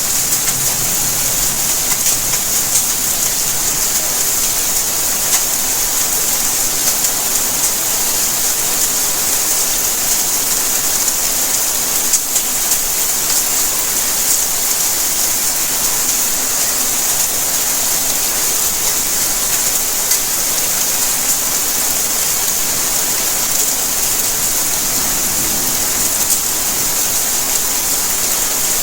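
Steady rainfall, an even hiss with many small drop ticks on hard surfaces, no change in intensity.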